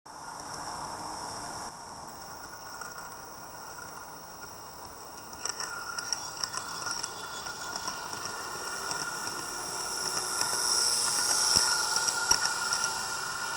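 A train running on rails: a steady whine and hiss, with clicking over the rail joints from about a third of the way in, growing louder toward the end as it draws near.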